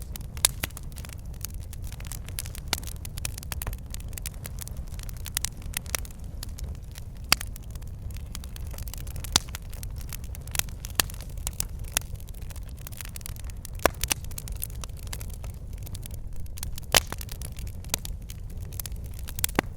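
Wood fire crackling and popping: irregular sharp snaps over a steady low rumble of the flames.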